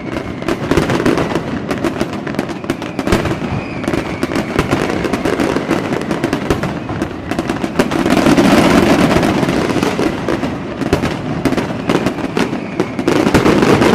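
Many fireworks going off at once: a dense run of bangs and crackling, swelling louder about eight seconds in and again near the end, with faint whistles rising early on.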